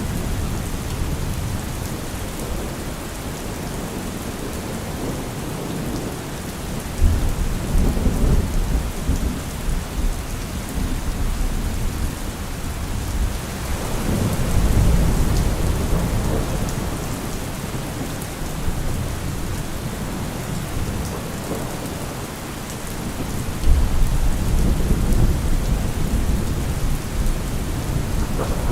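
Steady rain falling, with low rolls of thunder rumbling three times: about seven seconds in, around fourteen seconds, and again near the end.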